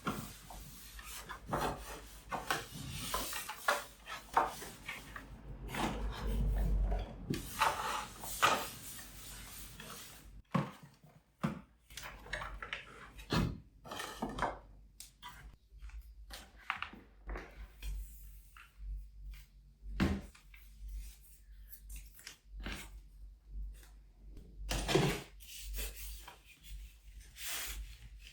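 Household cleaning sounds: something being rubbed over a surface, broken by scattered light knocks and clicks as objects are handled.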